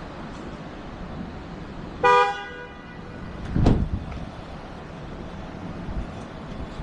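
A vehicle horn blasts once, short and loud, about two seconds in. A louder, noisier burst follows about a second and a half later.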